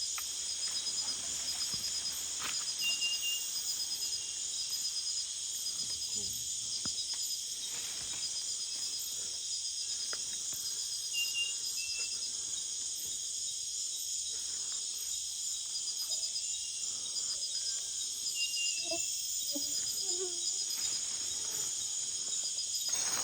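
Nighttime rainforest chorus of crickets and other insects: a steady, dense, high-pitched trilling and pulsing that never lets up. A few faint short calls or rustles sound beneath it, mostly in the second half.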